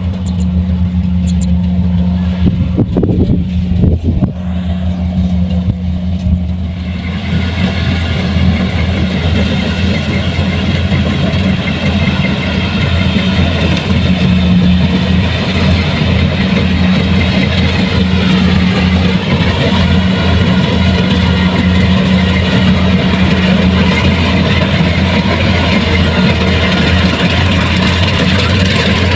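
Kubota rice combine harvester's diesel engine running steadily. A few knocks come about three to four seconds in, and a higher mechanical whirring joins about seven seconds in and carries on alongside the engine.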